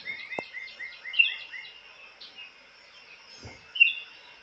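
Small birds chirping outdoors: a quick run of repeated short chirps in the first second and a half, then scattered single chirps. A sharp tick about half a second in and a soft low bump past the middle.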